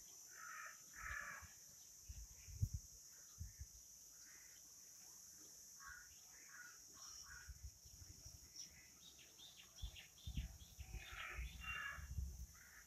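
Faint outdoor ambience of birds giving short calls and chirps here and there, over a steady high hiss. Low rumbles come and go, strongest near the start and again near the end.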